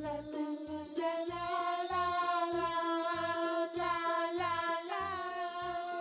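Background music for children: a high, childlike voice singing long held wordless notes over a steady bass beat of about two thumps a second.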